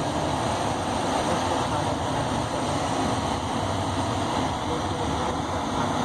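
Steady running noise of a passenger train heard from inside the coach: wheels on the rails and rushing air, an even rumble and hiss with no distinct beats.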